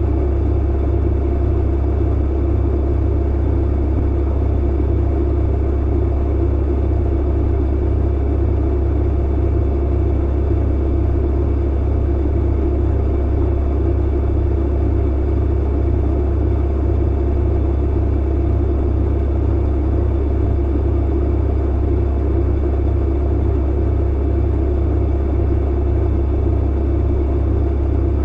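Tumble clothes dryer running: a steady low hum and rumble, with no change in level.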